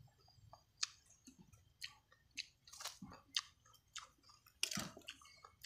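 A person chewing food close to the microphone, with irregular wet lip smacks and short mouth clicks.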